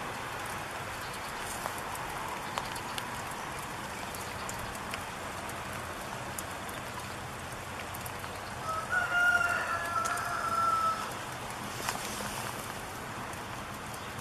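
Steady rain patter with scattered drop ticks, and about two-thirds of the way in a single drawn-out animal call in two parts that rises clearly above it.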